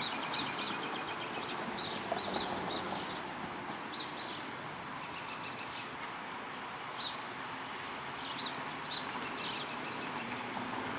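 Steady rainfall with short, high bird chirps scattered over it, several close together in the first few seconds and then every second or two.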